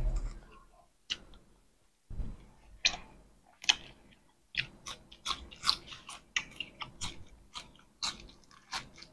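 Close-miked chewing and biting of raw leafy greens, crisp crunches coming thick and fast in the second half after a couple of dull bumps.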